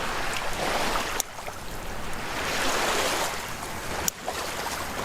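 Surf washing on a beach, an even rushing noise that swells about halfway through, broken by sudden cuts about a second in and near the end.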